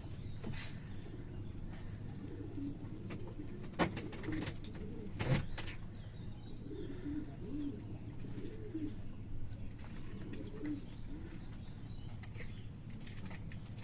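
Pigeons cooing, a string of low repeated calls, with a few sharp clicks or knocks, the loudest about four and five seconds in.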